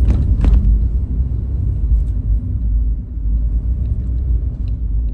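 Low, steady rumble of a car heard from inside the cabin, with two sharp knocks about half a second apart right at the start.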